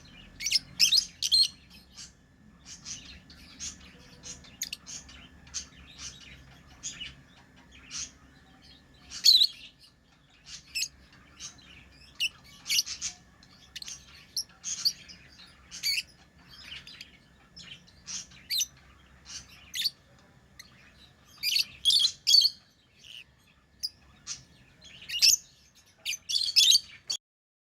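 Pet lovebirds chirping: many short, high chirps coming irregularly, some in quick clusters, until they cut off suddenly near the end.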